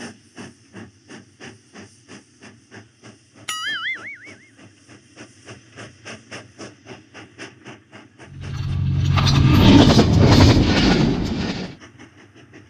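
Train sound effect: wheels clicking over rail joints about three times a second, a short wavering whistle about three and a half seconds in, then a loud rushing hiss with a deep rumble for about three seconds near the end.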